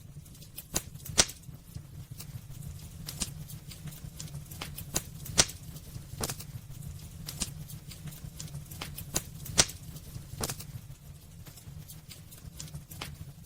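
Wood fire burning in a fireplace: irregular crackles and sharp pops over a steady low rumble, with a few louder snaps about a second in, near the middle and around two-thirds through.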